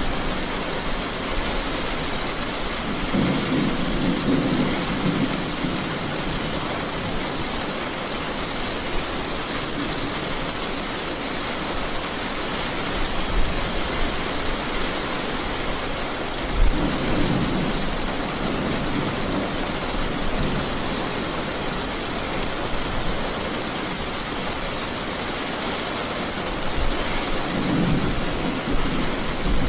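Steady rain, with low rumbles of thunder rolling in three times: about three seconds in, around the middle, and near the end.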